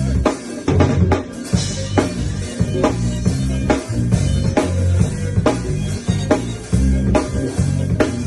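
Drum kit and bass guitar playing a groove together: regular kick and snare hits over a moving bass line, with a cymbal crash about a second and a half in.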